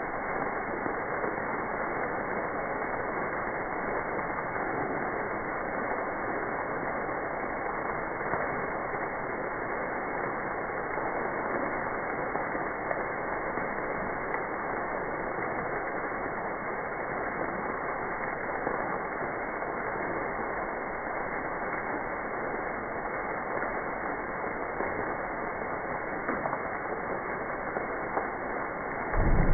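Steady, even noise without any tone, with a short, louder low thump at the very end.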